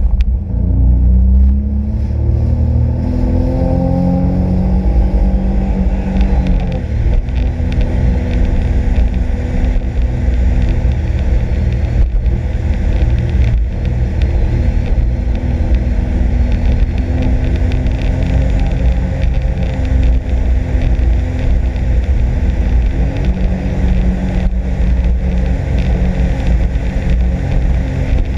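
Sea-Doo RXP-X 260 personal watercraft with its supercharged four-stroke engine, accelerating hard with the pitch climbing over the first few seconds. It then runs steadily at speed, with another climb in pitch near the end, over a heavy low rumble.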